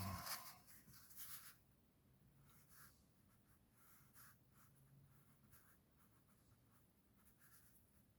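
A paintbrush working acrylic paint onto a rock: faint, short, scratchy strokes and dabs. There is a brief louder bump right at the start.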